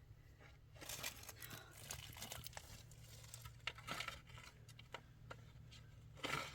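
Rustling and crinkling of something being handled, in irregular bursts, the loudest just before the end.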